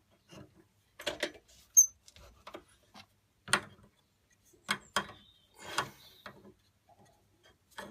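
Scattered clicks and knocks of tools and metal parts being handled on a workbench, with one sharp tap about two seconds in.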